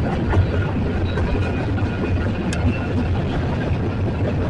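Union Pacific freight train passing, a loud, steady rumble of wheels on rail.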